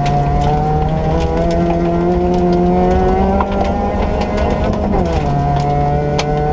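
Ford Ka rally car's 1.4-litre engine pulling hard, its pitch climbing slowly, then falling sharply about five seconds in and carrying on lower. Many sharp clicks and rattles run throughout.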